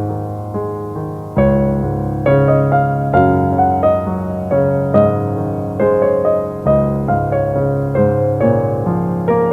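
Background piano music: an unhurried tune of struck notes and chords, with deeper bass notes coming in about a second and a half in.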